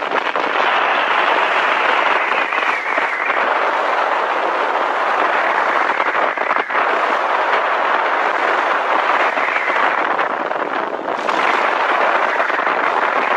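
Steady vehicle noise, typical of a motorcycle being ridden, with an abrupt change in the sound about eleven seconds in.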